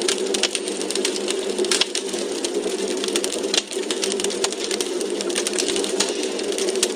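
Wood fire burning in a fireplace: logs crackling with many irregular sharp pops and snaps over a steady rushing hiss.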